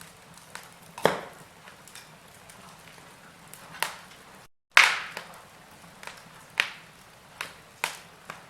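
Wood fire burning in a fireplace, crackling with irregular sharp pops over a low hiss; the loudest cracks come about a second in and just under five seconds in. The sound drops out for a moment just before the second big crack.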